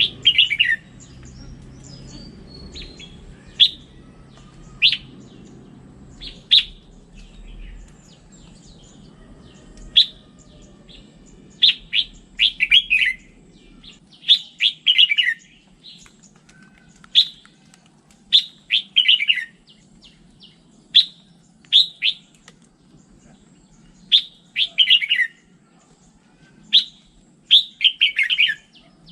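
Red-whiskered bulbul singing: short, sharp notes and quick phrases that fall in pitch, repeated every second or two.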